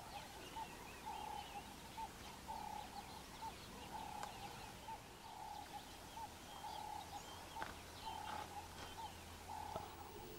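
Faint bush birdsong: a short low call repeated two or three times a second, with scattered higher chirps and twitters over it.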